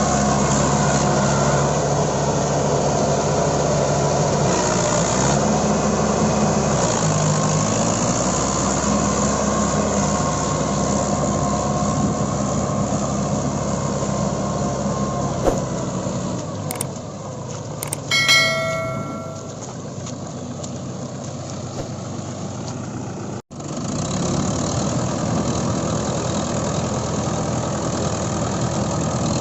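Mahindra 575 DI tractor's diesel engine running, its pitch shifting now and then as the throttle and load change. A short high-pitched tone sounds about two-thirds of the way through, and the sound cuts out for an instant a few seconds before the end.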